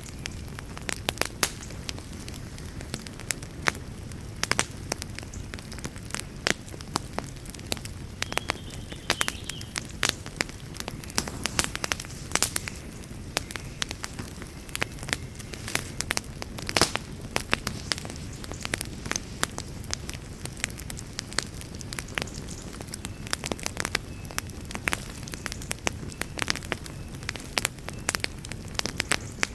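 Wood campfire crackling: frequent, irregular sharp pops and snaps over a steady low rush.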